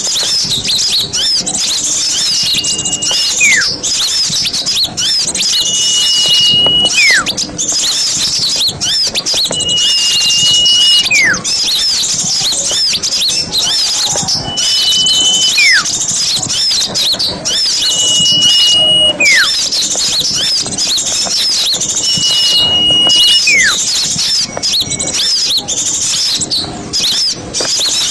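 Many small birds chattering busily and without a break. Cutting through it, about every four seconds, comes a repeated call: a short held whistle followed by a quick downward-sliding whistle.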